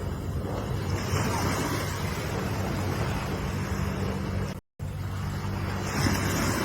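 Ocean surf washing in a steady rush, with waves swelling about a second in and again near the end, over a steady low rumble. The sound cuts out completely for a split second just past the middle.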